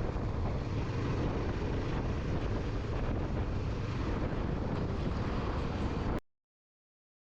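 Wind buffeting the microphone over steady vehicle running noise while riding. The sound cuts off abruptly to silence about six seconds in.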